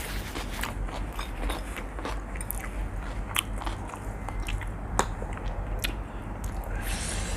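Close-up chewing and biting of spicy seafood instant noodles, with many irregular wet clicks and a short hiss about seven seconds in, over a steady low hum.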